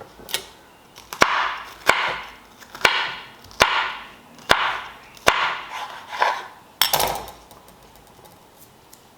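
A series of about seven sharp knocks, roughly one every second, each followed by a short fading hiss, stopping about seven seconds in.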